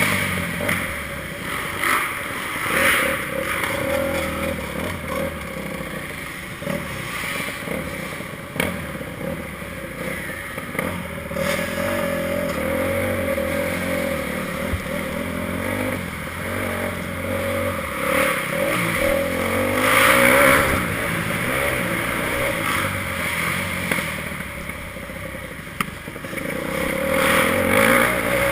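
Motocross bike engine being ridden hard, revving up and down repeatedly, with its loudest surges about two-thirds of the way in and near the end, and scattered short knocks.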